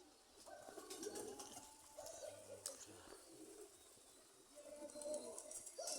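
Domestic pigeons cooing faintly, several low warbling coos in turn.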